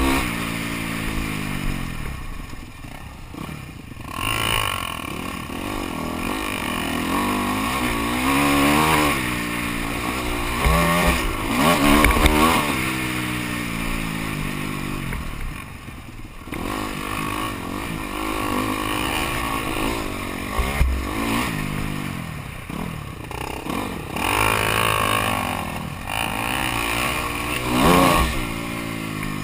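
Motocross bikes' engines revving hard and easing off again and again, the pitch rising and falling as they race round the dirt track, with a few louder passes.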